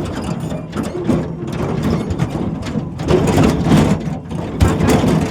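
Tractor running, with a steady low engine note under continuous metallic rattling and clattering.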